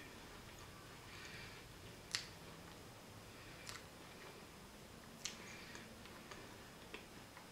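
Faint chewing of a crisp rice wafer, with short crunchy crackles and four sharp clicks about a second and a half apart.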